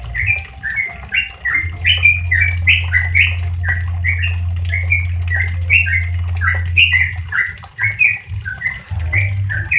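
Yellow-vented bulbul (trucuk) singing a fast, continuous run of short chirping notes, about three a second, in the rapid 'ropel' style. A low steady hum runs beneath it, fading briefly near the end.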